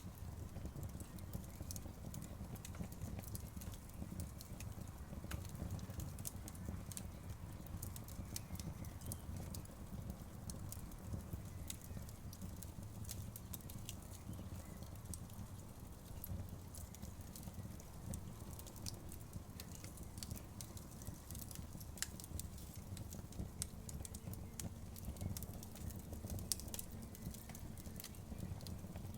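Wood fire burning steadily: a low rumble of flames with frequent irregular crackles and sharp pops.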